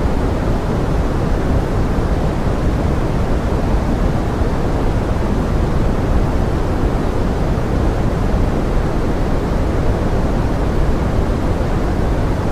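Steady pink noise blended with forest rain: an even, unbroken rushing hiss, heaviest in the low end and unchanging throughout.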